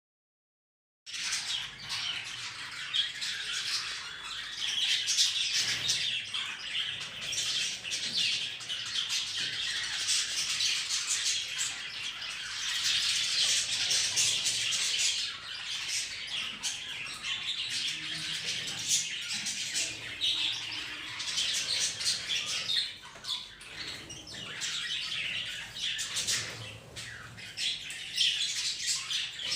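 Pet budgerigars and parrots in a shared cage chirping and chattering continuously in a dense, busy stream of small calls, starting about a second in.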